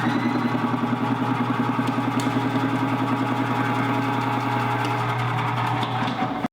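Electric vegetable-slicing machine for radish running: a steady motor hum with a fast, even pulsing beat that stops suddenly at the end.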